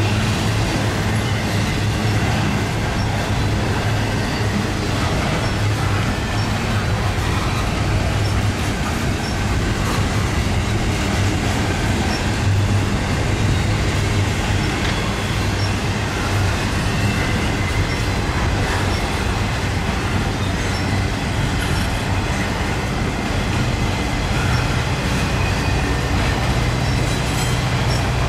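Intermodal freight train's double-stack container cars and trailer flatcars rolling past, a steady sound of steel wheels on rail.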